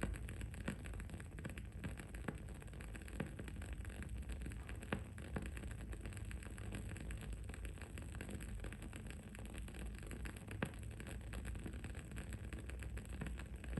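Wood-wick candle crackling: a steady run of small irregular pops and ticks, with a few sharper cracks. Underneath runs a steady low background hum.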